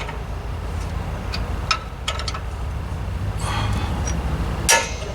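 Hand tools and steel axle parts clinking faintly over a steady low rumble, with a sharper metal knock near the end.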